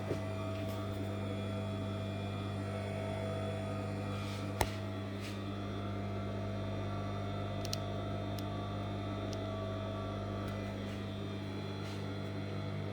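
Brother industrial sewing machine motor running idle with a steady low hum, the needle not stitching. A single sharp click about four and a half seconds in.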